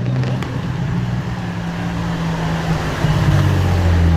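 Sports car engine running with a steady note, then getting louder and deeper about three seconds in as it is revved or pulls away.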